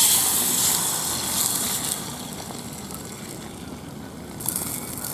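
Food sizzling over heat: a sudden hiss that fades over about two seconds, with a second burst of sizzling near the end.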